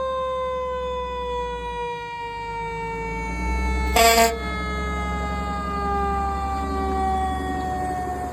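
Fire truck's siren winding down, one steady tone falling slowly in pitch, with a single short air horn blast about four seconds in and the truck's engine rumbling underneath.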